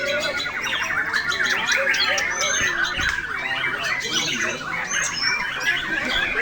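Many caged white-rumped shamas (murai batu) singing at once, a dense tangle of overlapping whistles, trills and harsh rattling chatter.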